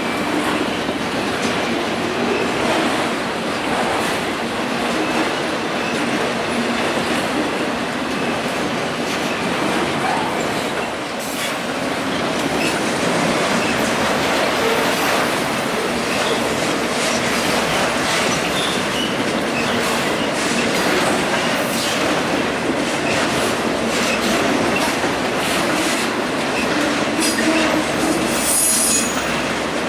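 Freight train cars rolling past with a steady rumble of steel wheels, repeated clicks over rail joints, and a brief high wheel squeal near the end.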